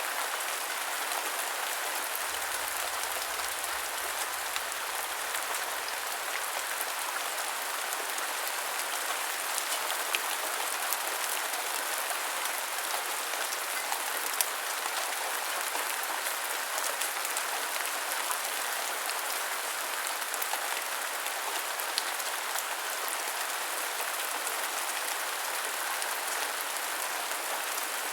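Steady heavy rain falling, a dense even hiss with scattered individual drops striking a surface.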